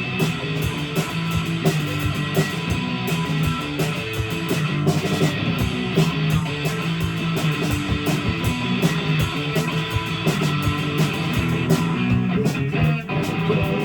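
Live rock band playing an instrumental stretch of a song: guitar over a steady drum beat, with no vocals.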